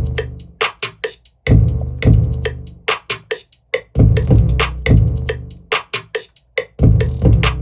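A hip-hop beat in progress playing back: long, deep 808 bass notes starting about every two and a half seconds under fast, rolling hi-hats and snare hits from a drum machine.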